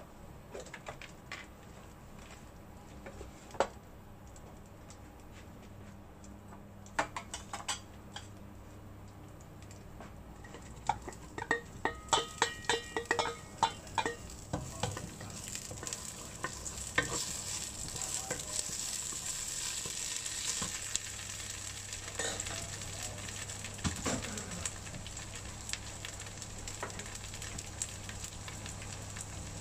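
Hot oil in a nonstick pot with a few light pops, then a quick run of ringing clinks about halfway through as sliced shallots and garlic are tipped in from a steel bowl. The oil then sizzles steadily, with a wooden spatula stirring the shallots and garlic.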